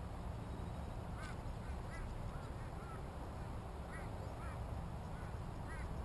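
A bird calling in short, repeated notes, in scattered groups, over a steady low rumble.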